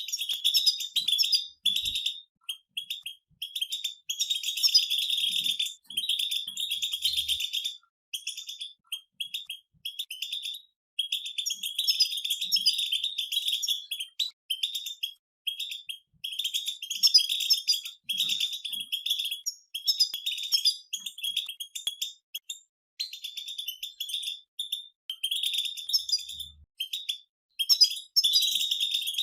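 Several European goldfinches twittering together in fast runs of high chattering notes. The phrases break off briefly and start again every few seconds.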